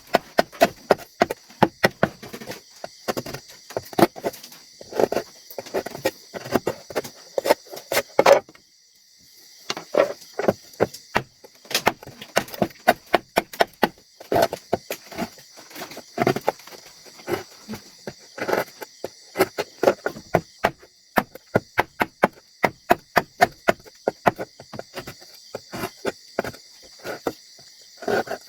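Repeated sharp chopping strikes, about two to three a second, with a short pause about eight seconds in, over a steady high-pitched insect chorus.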